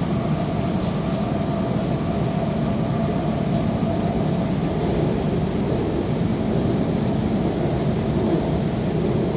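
MTR K-Train running at speed, heard from inside the car: a steady rumble of wheels on rail with a constant high whine, and a few faint clicks.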